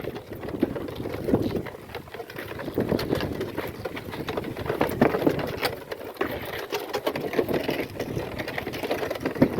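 Goat-drawn cart loaded with firewood rolling along, rattling and clattering with many small irregular knocks.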